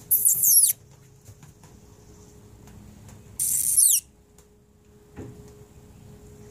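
A bird calling twice, about three seconds apart, each call short, loud and high-pitched with falling glides.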